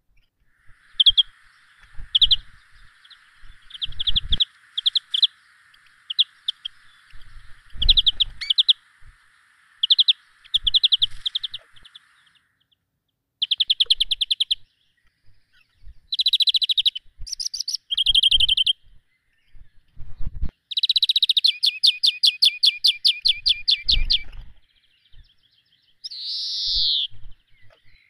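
Small birds chirping and calling in short notes and fast trills, with a few dull low thumps among them.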